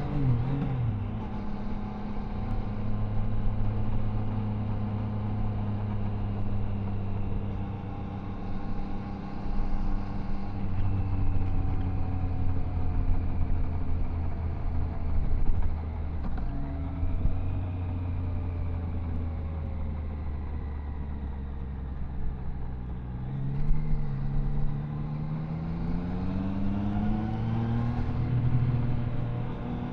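Triumph Tiger Sport 660's inline three-cylinder engine running under way, heard from the rider's seat with wind and road noise. The engine note eases off just after the start, holds fairly steady with a couple of drops in pitch, then rises as the bike accelerates in the last few seconds.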